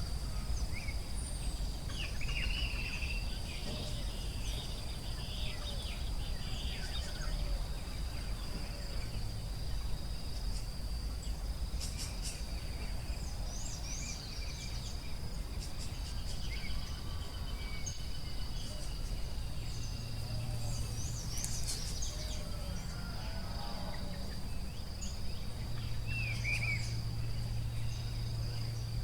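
Forest ambience: a steady high insect drone with many birds chirping and calling, over a constant low rumble.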